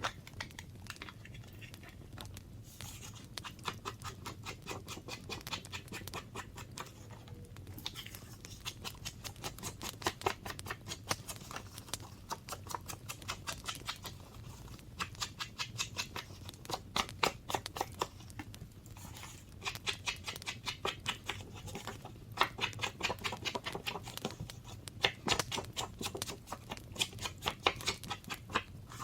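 Quick rhythmic tapping on paper, about seven taps a second, in runs of a few seconds with short pauses.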